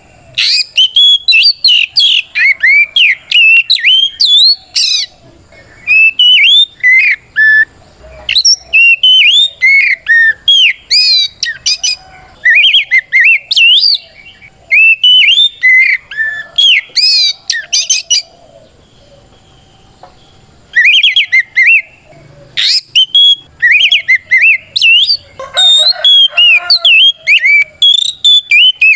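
Oriental magpie-robin singing its loud challenge song: quick bursts of varied whistles, slurred notes and chattering trills, broken by short pauses, with a longer pause about two thirds of the way through. This is the full fighting song that provokes rival magpie-robins to answer.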